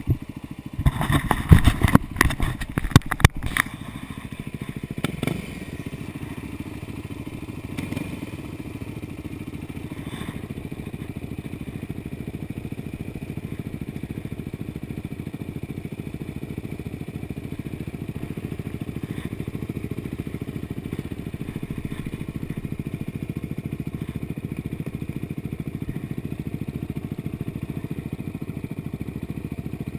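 Dirt bike engine idling steadily. In the first few seconds there is a burst of loud knocks and clatter.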